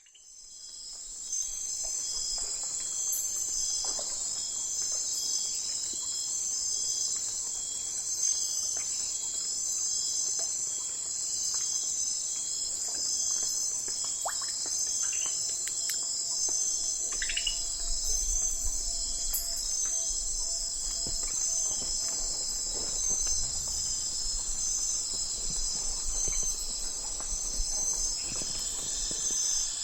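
Night forest insect chorus, crickets trilling in a dense, steady, high-pitched wall of sound that fades in over the first second or so. A few short descending calls stand out near the middle.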